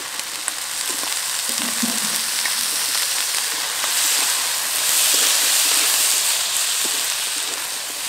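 Chopped potato and eggplant frying in mustard oil in a kadai, a steady sizzle that grows louder about four seconds in, with light scrapes of stirring.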